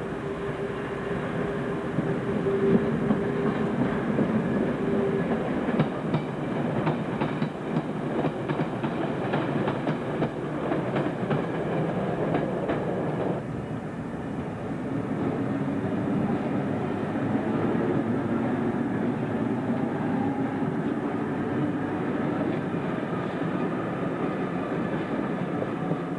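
Multiple-unit passenger trains running through a station: a steady drone with a held tone for the first few seconds, then a run of wheel clicks over the rail joints as a train passes close by. About halfway through the sound changes abruptly to the steady running drone of another train.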